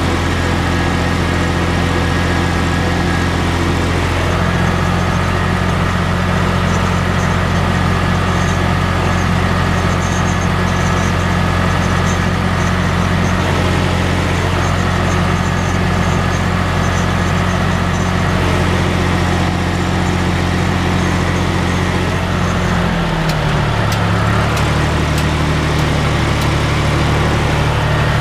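John Deere 1030's three-cylinder diesel engine running steadily while tedding hay. Its note changes near the end.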